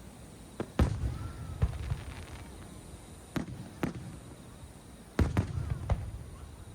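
Aerial fireworks shells bursting: about eight sharp bangs in three clusters, each followed by a low rumbling echo.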